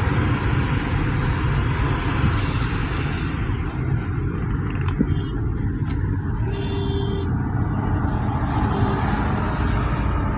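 Steady rumble of a car on the move: engine and road noise, heaviest in the low end, with a few faint clicks and a short faint tone about six and a half seconds in.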